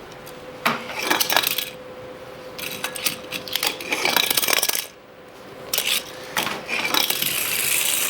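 Small hard objects clattering and rattling in three bursts, the middle one the longest, over a faint steady hum.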